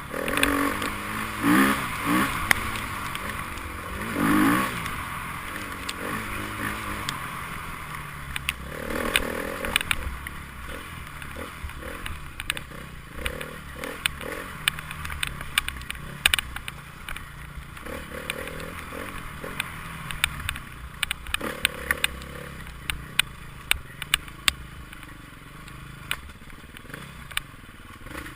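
Enduro motorcycle engine revving up and down a few times in the first five seconds, then running lower under many sharp clicks and knocks.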